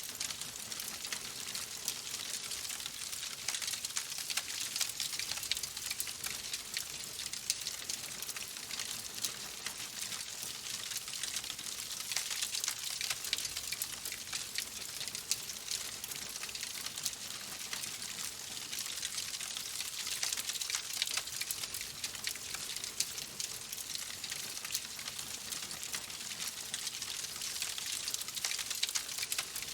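Fireplace fire crackling: a dense, steady stream of small pops and snaps over a soft hiss.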